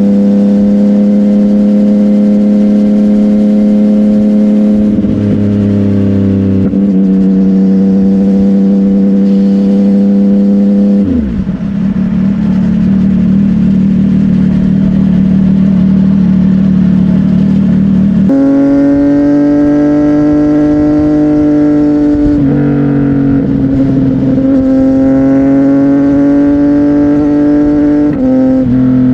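CFMOTO 675NK's three-cylinder engine through a Burnout titanium exhaust, running under way at fairly steady revs. The pitch drops about eleven seconds in, rises sharply around eighteen seconds, and shifts a few more times near the end as the revs change.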